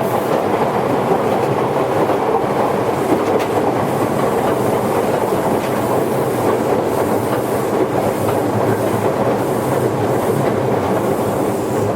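Toyohashi Railway 1800 series electric train, a former Tokyu car, running at steady speed: a continuous rumble of wheels on rail, heard from inside the car, with a few faint clicks from the rail joints.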